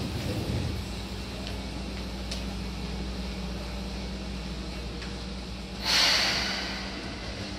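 Seibu 2000-series electric train with a steady low hum from its onboard equipment. Just before six seconds in comes a sharp hiss of released compressed air, fading over about a second.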